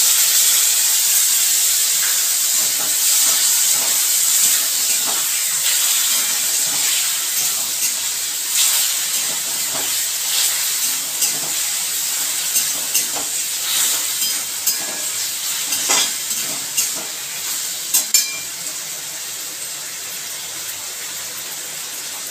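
Sauces and vegetables sizzling in hot oil in a wok, loudest at first and slowly easing off. A metal spatula scrapes and clicks against the wok as the mix is stirred.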